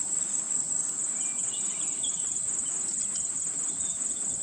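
A steady, high-pitched insect chorus trilling continuously, with a fine rapid pulse.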